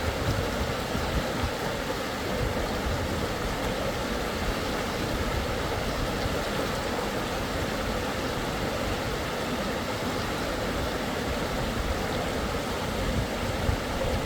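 Rushing creek water, a steady even noise with a low rumble underneath.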